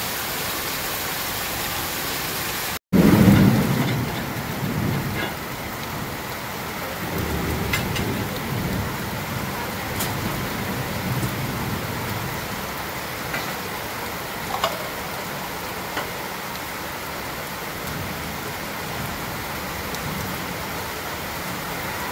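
Heavy rain pouring steadily. About three seconds in the sound cuts briefly, and then a loud deep rumble starts and fades away over a few seconds while the rain goes on, with a few sharp taps later.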